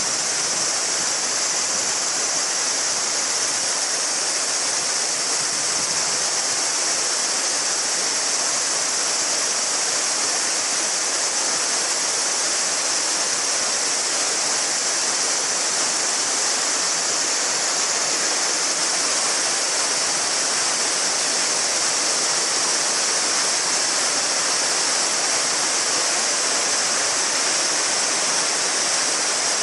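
A small mountain river babbling and rushing steadily, with a dense, unbroken chorus of summer cicadas high above the water.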